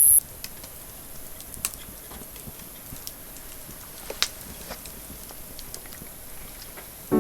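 Scattered light clicks and taps over a quiet background, with a sharper pair of clicks a little after four seconds in.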